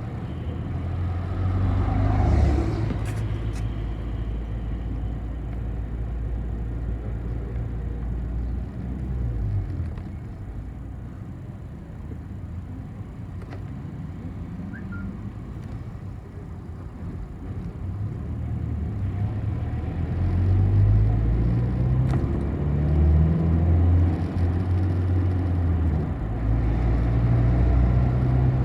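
City bus under way, its diesel engine and road noise making a low rumble. About two seconds in there is a brief louder swell, and in the last third the engine note climbs and grows louder as the bus picks up speed.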